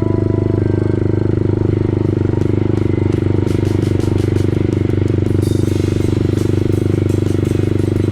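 An engine running steadily at a constant speed, with light clicking and rattling over it from a few seconds in.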